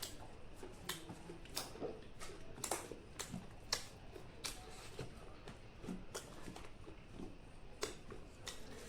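Eating sounds: irregular sharp clicks and crunches, one or two a second, of someone chewing and biting food.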